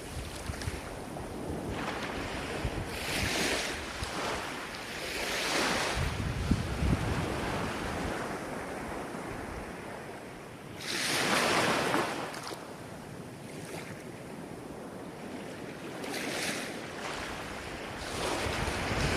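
Ocean waves surging and washing in, several swells rising and falling, the loudest a little past halfway. Wind rumbles on the microphone underneath.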